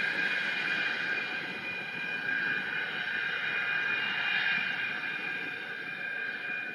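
Yak-40 regional jet's Progress AI-25 turbofan engines, a steady high whine over a rushing roar, beginning to fade near the end.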